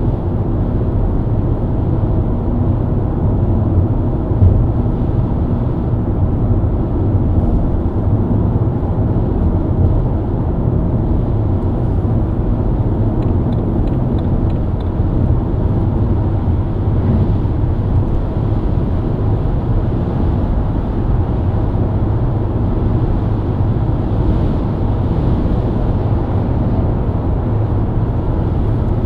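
BMW E90 323i's inline-six engine and tyres at a steady highway cruise, a constant low drone with road noise and no change in revs.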